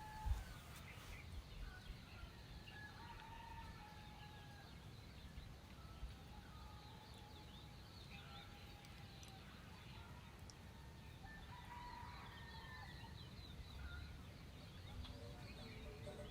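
Faint outdoor ambience: scattered short bird calls and chirps, including fowl, over a low rumble.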